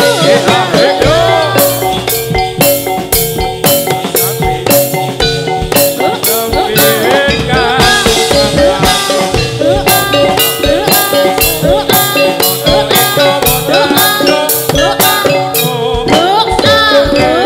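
Live Javanese folk-dance music: drums keep a steady driving beat under struck metal keyed percussion and sliding pitched notes.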